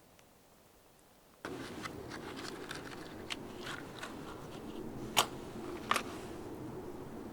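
Wood campfire crackling, with a steady low rustle of burning and irregular snaps and pops, two of them sharp and loud about five and six seconds in; it starts suddenly about a second and a half in after near silence.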